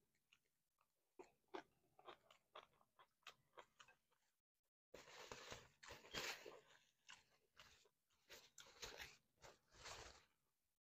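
Close-up chewing and crunching of a mouthful of taco salad: a run of small crisp crunches, then a denser, louder stretch of crunching from about five seconds in, stopping just before the end.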